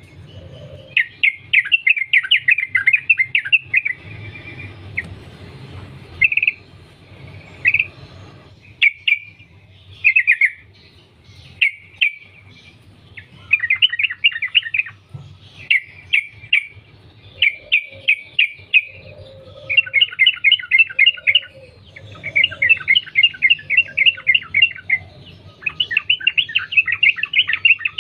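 Yellow-vented bulbul (trucukan) singing: short bubbling chirped phrases, then from about halfway through longer runs of rapid trilled notes repeated with brief gaps. A faint low hum underneath.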